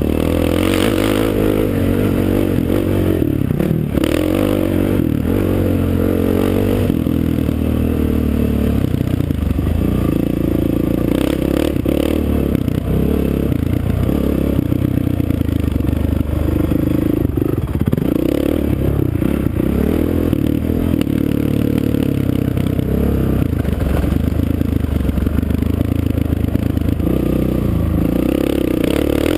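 Off-road racing engine being ridden hard on a dirt track, its pitch climbing and dropping every few seconds as the throttle opens and closes. Clattering and scraping noise runs over it.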